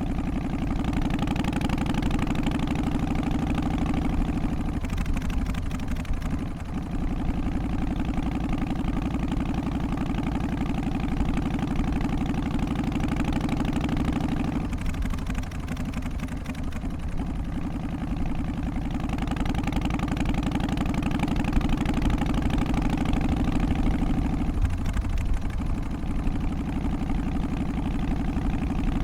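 Harley-Davidson Twin Cam 88 V-twin engine running with a steady, even pulsing beat. Its upper tones thin out briefly three times, about ten seconds apart.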